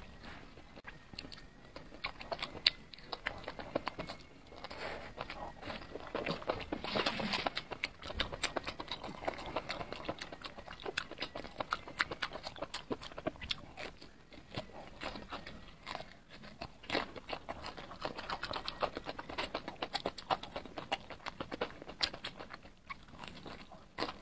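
Close-miked eating sounds: a person biting and chewing spiced grilled skewer food, with a dense run of small mouth clicks and smacks.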